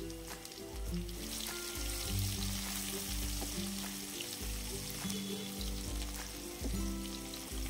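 Hot oil sizzling in a kadhai as onion, garlic, cumin and dried red chillies fry for a dal tadka, stirred with a spatula in the second half. Background music with a steady low beat plays underneath.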